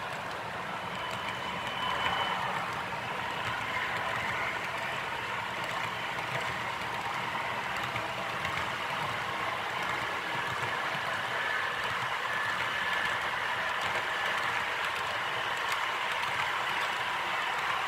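H0-scale model freight train of auto-rack cars rolling along the track: a steady rattling rumble of many small wheels on the rails, with brief high tones about a second in and again midway through.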